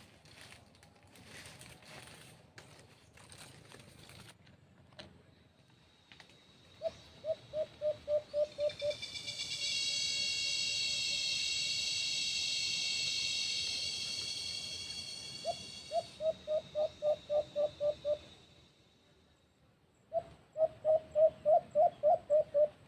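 White-eared brown dove calling: three runs of about ten quick, low hooting notes, roughly four a second, with the last run the loudest. In the middle a loud, steady, high insect drone swells up and fades away.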